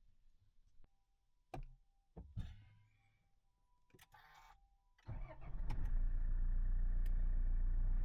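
A few clicks and knocks with a faint steady electronic tone, then about five seconds in a vehicle engine, most likely the Toyota HiAce van's, starts and settles into a steady idle.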